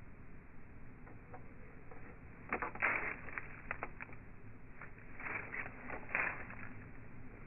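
Slowed-down audio of birds at a backyard feeder: two clusters of short clicks and rustles over a low hiss, one about two and a half seconds in and another about five seconds in.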